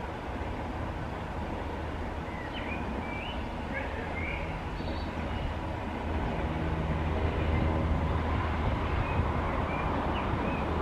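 Low rumble and hum of an approaching train, growing steadily louder, with birds chirping in the first half.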